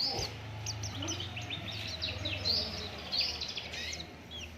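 White-eye (pleci) songbird singing a quick run of high chirps and twittering, gliding notes. A steady low hum sits underneath.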